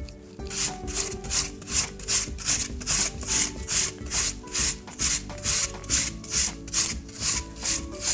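A cooking apple being grated by hand on a grater: a steady run of short rasping strokes, about two or three a second. Soft background music underneath.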